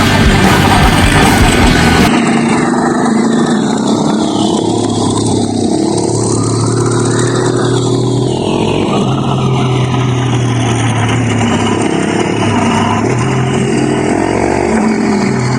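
Music until about two seconds in, then a dirt bike's engine running on the trail, its pitch rising and falling with the throttle and gear changes.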